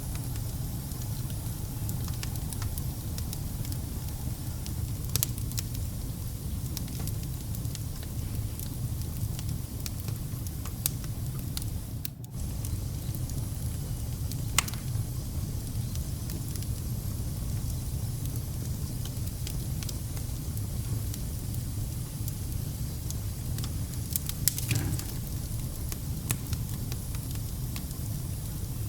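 Wood fire burning in a fireplace: a steady low rumble of flame with scattered crackles and sharp pops, a louder pop about fifteen seconds in and a cluster of pops near the end. The sound dips briefly about twelve seconds in.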